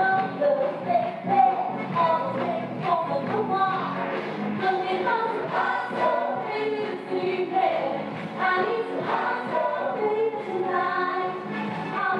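Music with several voices singing together, choir-like, continuing throughout.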